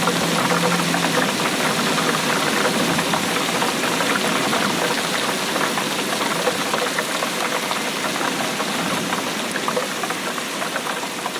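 Steady rainfall: a dense, even hiss of many small drop impacts.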